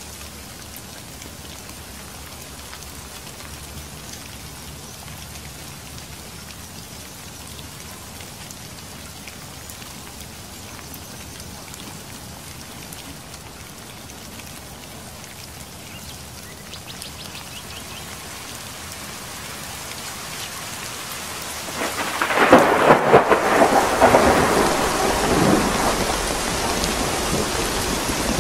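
Steady rain falling, growing slowly louder; about three quarters of the way through, a loud clap of thunder breaks and rumbles on to the end.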